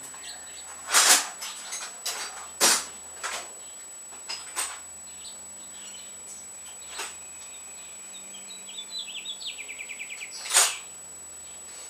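Tools being handled in a small room, likely Torx bits being fetched: scattered sharp clicks and knocks, with a fast run of about a dozen ringing ticks shortly before a louder knock near the end.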